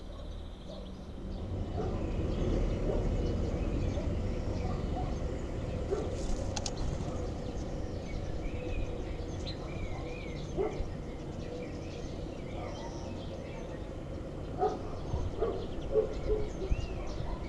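Low, steady rustling rumble with scattered light knocks, and short, faint bird chirps in the middle and again near the end.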